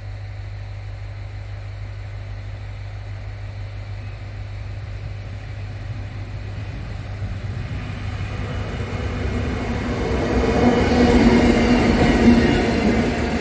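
Diesel locomotive hauling a passenger train, approaching and passing close by: a steady low engine hum that grows louder from about eight seconds in and peaks as the locomotive goes past near the end, joined by the rumble of the carriages on the rails.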